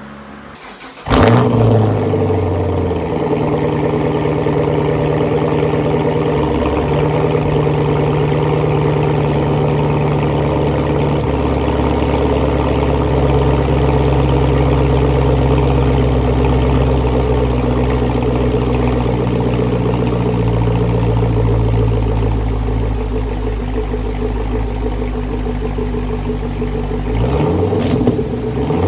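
Sawzall reciprocating saw cutting through a steel exhaust pipe. It starts suddenly about a second in, runs steadily with its pitch shifting in steps as the motor speed changes, and stops shortly before the end.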